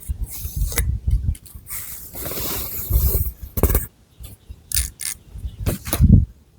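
Long fingernails scratching through thick long hair and over the scalp: irregular scratchy strokes with a deep rubbing rumble under them, and one longer, steadier scrape about two seconds in.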